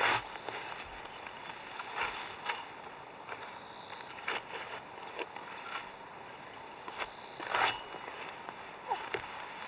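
A steady outdoor insect chorus, high and unbroken, with scattered short rustles and light knocks of footsteps or handling over it; the loudest rustles come right at the start and about seven and a half seconds in.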